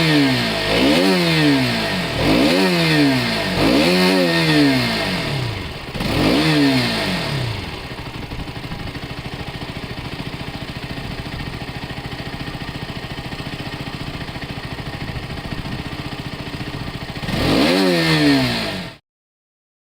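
Motorcycle engine revved in quick blips, about five rises and falls in pitch, then settling into a steady idle. Near the end it is revved once more and the sound cuts off suddenly.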